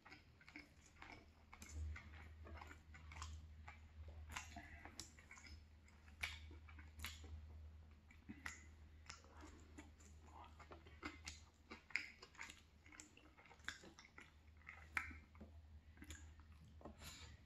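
Close-miked chewing and wet mouth sounds of a person eating saucy fried chicken and rice: irregular smacks and clicks over a low steady hum.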